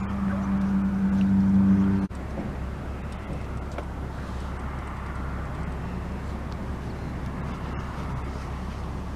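A steady low mechanical hum that grows louder and then cuts off abruptly about two seconds in, followed by a steady low outdoor background rumble.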